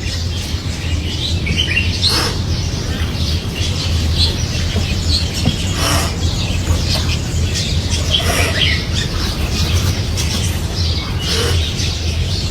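Birds chirping and calling in short, irregular notes over a steady low rumble.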